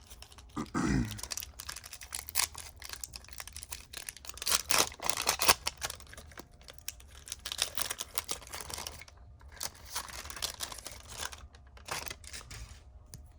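Card pack wrapper being torn open and crinkled, with trading cards handled, giving a run of irregular crackly rips and rustles.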